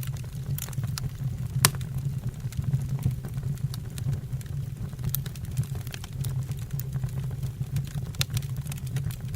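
Wood fire burning in a fireplace: a steady low rumble of the flames under frequent sharp crackles and pops from the burning logs, the loudest pop about a second and a half in.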